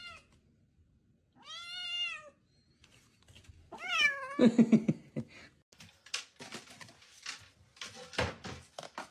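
Domestic cat meowing twice: one long meow about a second and a half in, and a louder one about four seconds in. Scattered short knocks and rustling follow.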